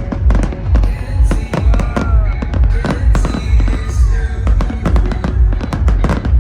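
Fireworks cracking and popping over loud electronic dance music with a steady thumping bass beat.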